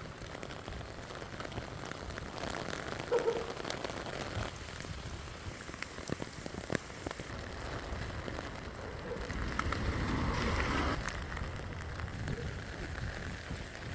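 Heavy rain falling on the pavement and surroundings, with scattered sharp drop impacts, swelling a little louder about ten seconds in.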